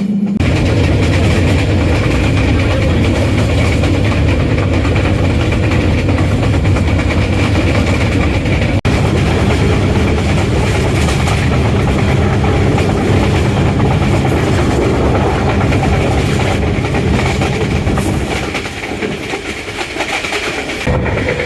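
Pakistan Railway express train running on the track: a steady, loud rumble of wheels and coaches on the rails. The sound dips briefly about nine seconds in and turns quieter for a couple of seconds near the end.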